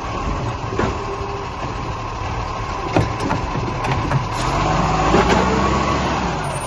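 Garbage truck's diesel engine running, with its pitch rising from about four and a half seconds in, and a few sharp knocks along the way.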